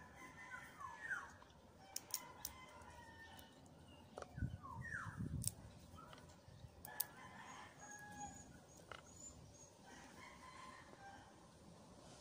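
Faint bird calls, repeated pitched falling calls, loudest near the start and about four seconds in, with a few faint clicks.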